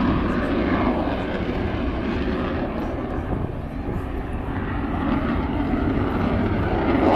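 Eurofighter Typhoon's twin EJ200 turbofan jet engines: a loud, steady rumble that dips slightly about halfway through and builds again near the end.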